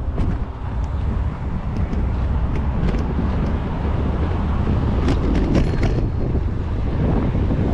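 Wind buffeting a GoPro action camera's microphone on a moving bicycle: a steady low rumble, with scattered sharp clicks and rattles, a cluster of them about five seconds in.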